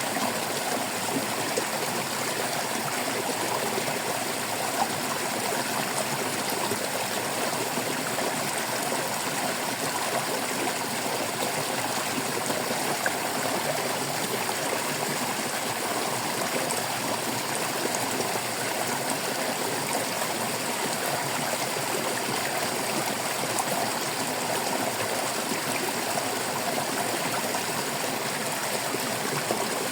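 Shallow stream of water running and babbling steadily, with small irregular splashes and gurgles.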